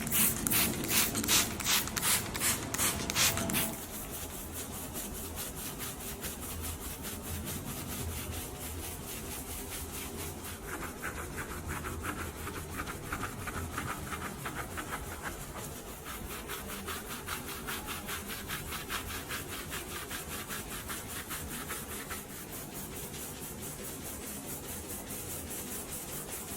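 Rhythmic scrubbing strokes on a surface, loud and quick for the first few seconds, then going on more quietly and steadily.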